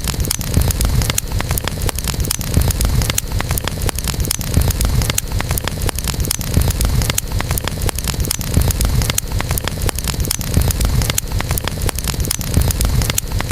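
Wood campfire burning: many sharp crackles and pops over a low rumble of the flames that swells and eases every couple of seconds.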